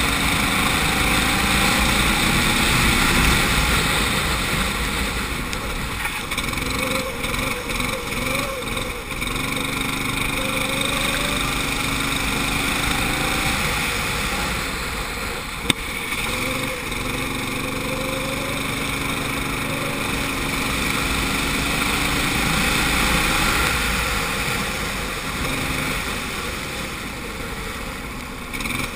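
Kart engine heard onboard, its pitch climbing steadily on each straight and dropping back when the throttle is lifted for corners, several times over. A single sharp click about halfway through.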